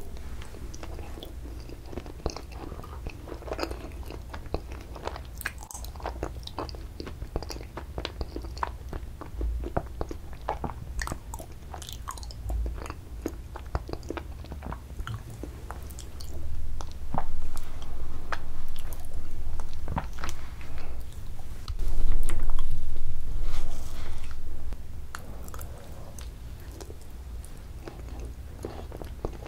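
Close-miked mouth sounds of a person eating ice cream: wet chewing with many small sharp crunches and crackles from bits in the ice cream. The chewing grows louder for several seconds past the middle.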